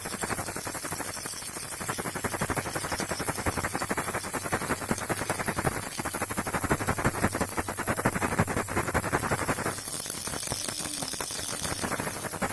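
Baby rattle shaken without pause, its beads making a dense, rapid clicking rattle, with a slight change in the pattern about six seconds in and again near ten seconds.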